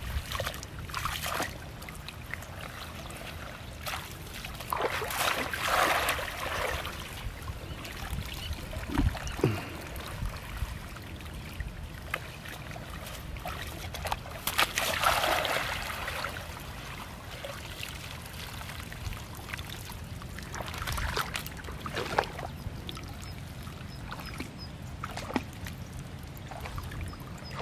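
Water trickling and pouring, with several louder splashy surges over a steady background noise, as of water being worked by hand while catching small fish.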